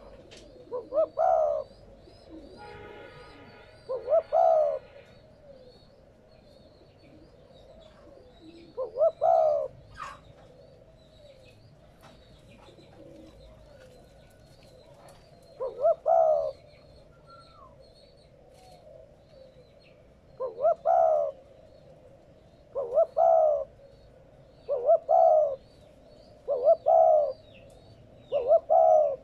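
Spotted dove cooing: nine short phrases of two or three low coos each, spaced irregularly at first and then coming about every two seconds in the second half. Faint high chirps of small birds run underneath.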